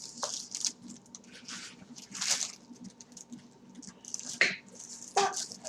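Eating noises close to the microphone: chewing and wet mouth smacks in short, irregular bursts.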